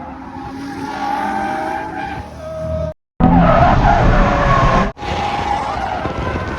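Drift car engine revving up and down over tyres squealing and skidding. The sound drops out for a moment about three seconds in and comes back louder, then dips briefly again near five seconds.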